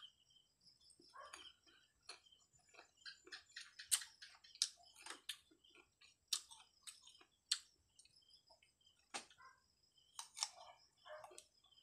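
Close-up biting and chewing of slices of unripe green Indian mango: irregular sharp, crisp crunches, with a few louder bites among softer chewing.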